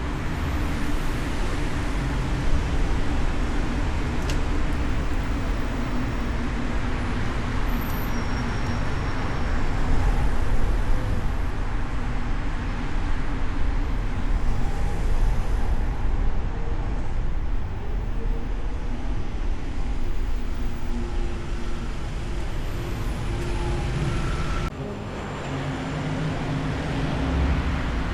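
City traffic and road noise heard from the hood of a moving car: steady tyre and engine noise with other vehicles around. The sound drops suddenly about 25 seconds in, then builds again.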